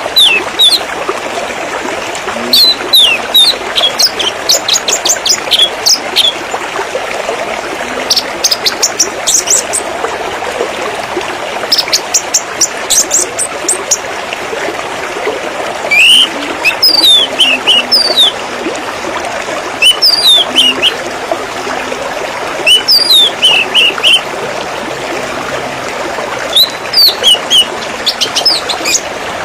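Water trickling steadily while a small songbird chirps in short bursts of quick, high notes every few seconds.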